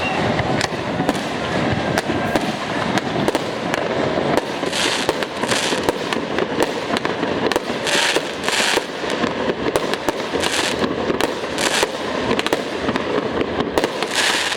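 Fireworks display going off without pause: a dense run of rapid bangs and crackle, with short hissing bursts several times in the second half.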